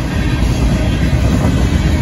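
Union Pacific grain train's freight cars rolling steadily past a grade crossing: a loud, continuous rumble of steel wheels on the rails.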